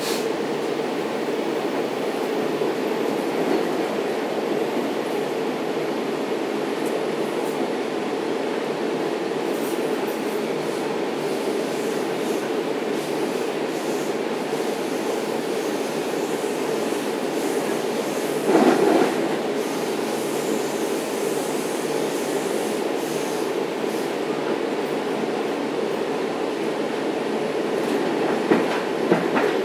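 Inside a Long Island Rail Road C3 bilevel coach running at speed: a steady rumble of the train rolling on the rails. About two-thirds through there is a brief louder surge, and near the end a few sharp wheel clacks.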